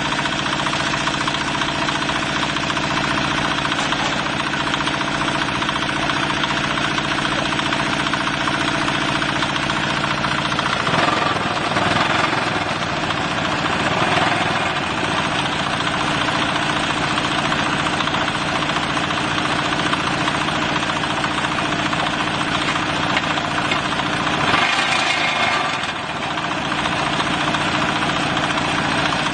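Diesel engine of a mobile block-making machine running steadily. About a third of the way in its note drops and a rougher, noisier sound swells for a few seconds, and a similar short burst comes near the end before the steady running returns.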